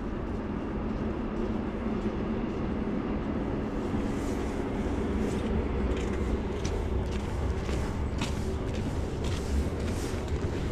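A train running with a steady low rumble; from about four seconds in, quick clicks and rattles join it.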